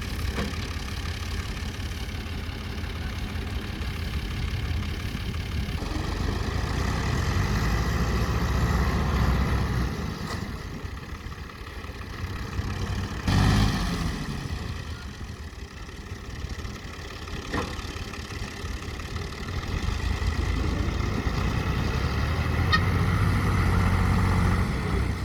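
Tractor diesel engine running, working harder twice as it swells louder and then eases off. A short loud burst comes about halfway through.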